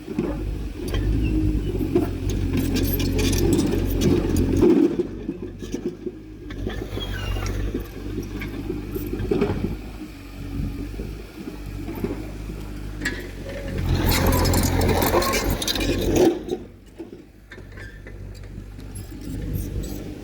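Heavy diesel earthmoving machinery working, the engine louder for the first few seconds and again about two-thirds through, with metallic clanking and scraping over it.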